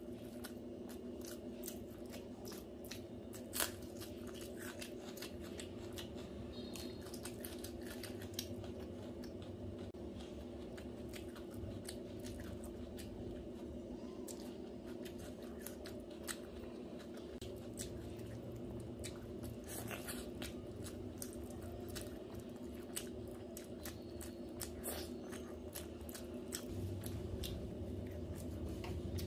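Close-up eating sounds of a person eating rice and chicken curry by hand: chewing and many small mouth and lip clicks, with the wet squish of fingers mixing rice, over a steady low hum.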